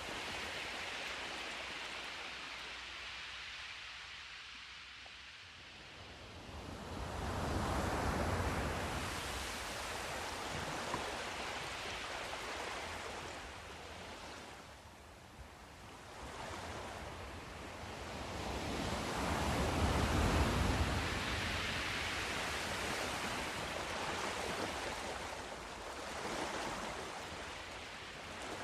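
Sea surf: waves breaking and washing on the shore in slow surges that build and fall away, the loudest about a third of the way in and again past the middle.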